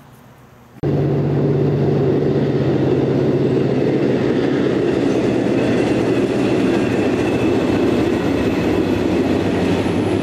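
A train passing close by: the steady rumble and rattle of rail cars rolling on the track, with a low hum under it. It starts abruptly a little under a second in.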